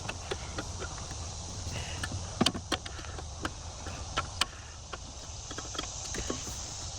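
Scattered metal clicks and knocks from hand tools and parts being worked under a car's dashboard, the loudest a few sharp clinks about two and a half and four and a half seconds in, over a low rumble and a steady high chirring of insects.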